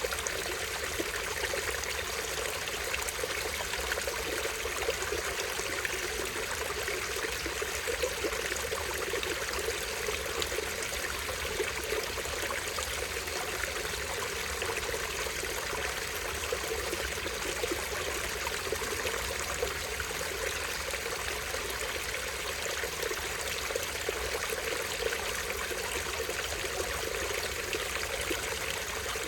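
Small stream running and trickling over a tiny waterfall: a steady, unbroken water sound.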